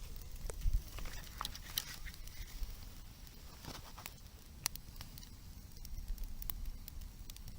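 Wood bonfire crackling, with irregular sharp pops every so often over a steady low rumble.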